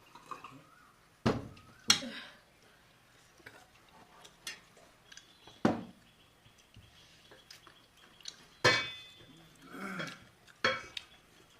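Kitchen utensils knocking against metal cookware and dishes: about five sharp clanks spread apart, one of them ringing briefly.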